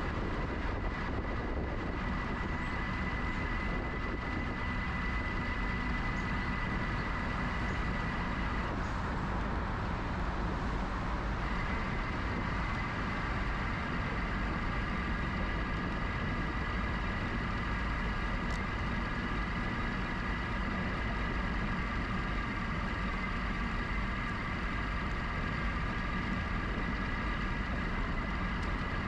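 A GoCycle GX electric bike is moving: wind and tyre rumble, with a steady high whine from its electric motor. The whine drops out for a couple of seconds about nine seconds in, then comes back.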